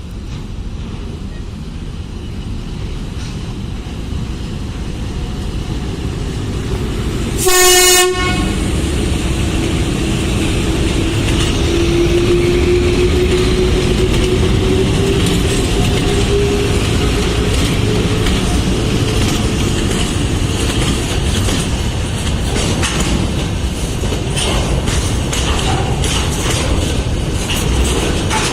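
A freight train hauled by a VL15 electric locomotive approaches and passes, its rumble and wheel noise growing louder. About a third of the way in there is one short, loud locomotive horn blast. After it a steady hum slowly rises in pitch over the rolling noise.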